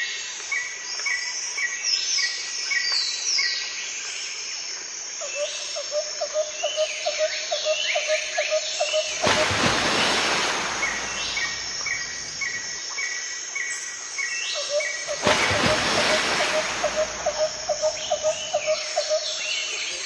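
Several wild birds singing and calling in woodland: quick repeated chirps and trills, and twice a fast run of lower repeated notes lasting a few seconds. A rushing noise swells up twice, near the middle and again about five seconds later.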